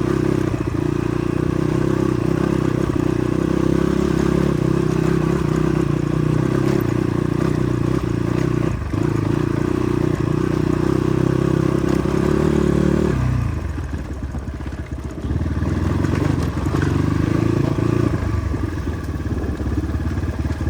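Motorcycle engine running at steady throttle while riding. About two-thirds of the way through, the engine note drops as the throttle eases off, then picks up again near the end.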